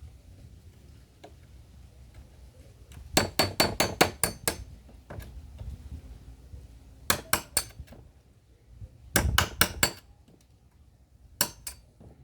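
Hammer striking an iron tool in four quick bursts of several blows each, with a metallic clink on every strike.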